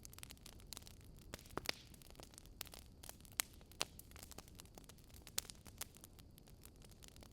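Wood fire crackling softly, with irregular small pops and snaps, a few sharper ones, over a faint hiss.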